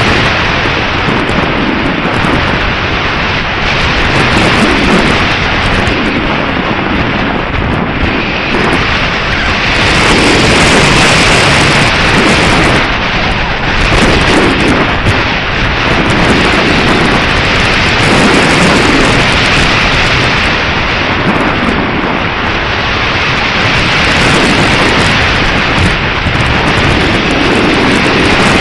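Strong gusty wind buffeting the microphone: a loud, steady rush of noise that swells and eases in gusts.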